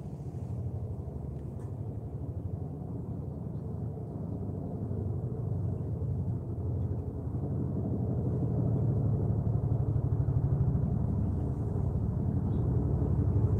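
A low, steady mechanical rumble with a fast, even pulse, slowly growing louder.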